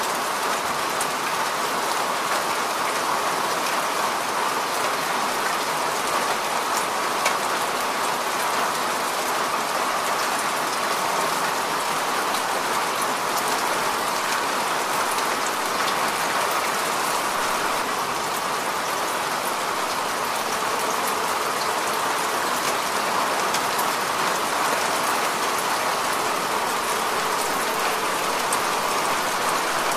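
Steady heavy rain: an even hiss of falling rain dotted with many small drop ticks, with one sharper tap about seven seconds in.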